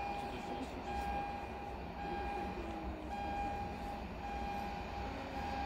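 An electronic warning tone repeating about once a second, over the low rumble of an approaching EN57 electric multiple unit.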